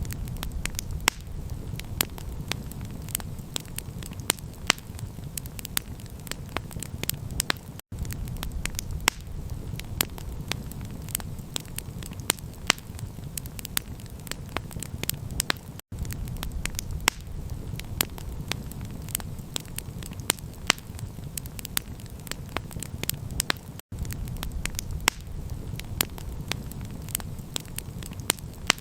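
Campfire crackling: a dense run of sharp pops and snaps over a steady low rumble. The sound cuts out for an instant three times, about every eight seconds.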